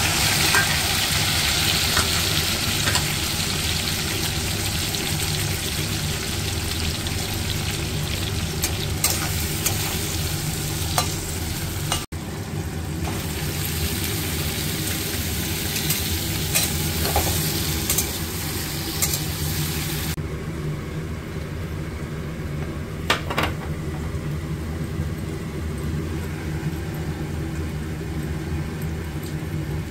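Vegetables frying in hot oil in a steel kadai: a steady sizzle with stirring and a few sharp clicks of a utensil against the pan, over a steady low hum. The sizzle drops out for a moment about twelve seconds in, then carries on and settles to a quieter frying after about twenty seconds.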